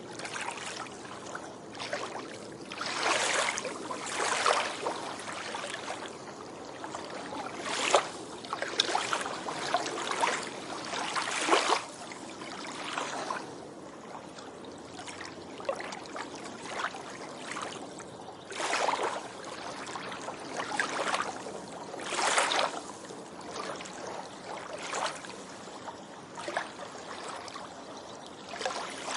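Small waves lapping and splashing on a beach shore: a steady wash of water with irregular short splashes, the biggest ones about three, eight, eleven and a half, nineteen and twenty-two seconds in.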